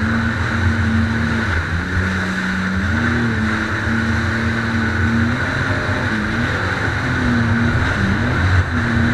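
Jet ski engine running under way, its pitch stepping up and dipping a few times with the throttle, over a steady rushing noise.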